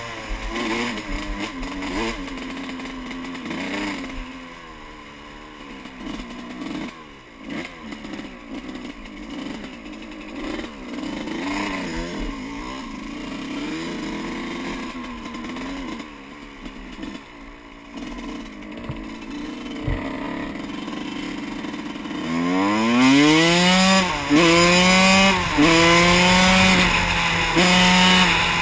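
Yamaha YZ125 two-stroke dirt bike engine being ridden: it runs at lower, varying revs for most of the stretch. Near the end it accelerates hard, the revs climbing steeply and dropping back several times as it shifts up through the gears.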